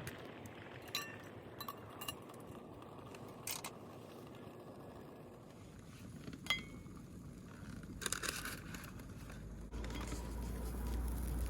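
Light clinks and taps of metal and glass cookware being handled, a few with a short ringing tone, spread irregularly over a steady hiss. A low rumble comes in near the end.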